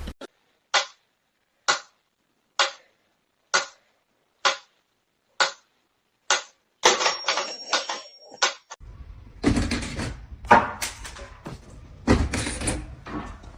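Seven sharp knocks, evenly spaced about a second apart, then a quick run of clattering taps, giving way to continuous noisy rustling and thumping.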